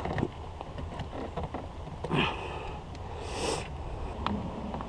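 Small plastic clicks and scrapes as a screwdriver pries at the wiring connector clip behind a truck door's window switch panel, with a sniff a little over three seconds in.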